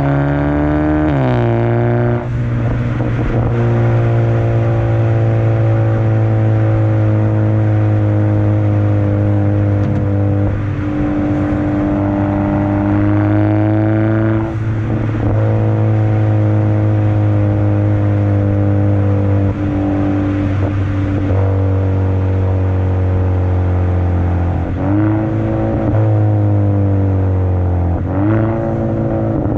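2017 Hyundai Elantra Sport's turbocharged 1.6-litre four-cylinder running through a modified exhaust with the second catalytic converter, resonator and muffler removed, giving a loud, steady drone under way. The pitch climbs slowly and then drops sharply several times, with a brief dip in loudness at each drop.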